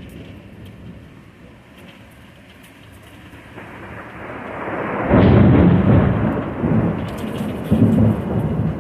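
Thunder rolling over a steady hiss of rain: a low rumble builds, jumps sharply louder about five seconds in, eases, then swells again near the end.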